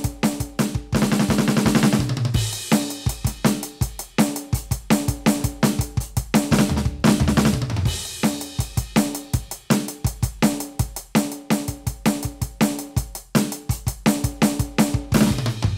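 Roland TD-17KVX electronic drum kit played through its module: a steady groove of kick, snare, hi-hat and cymbals. It breaks into tom fills that step down in pitch about a second in and again around seven seconds.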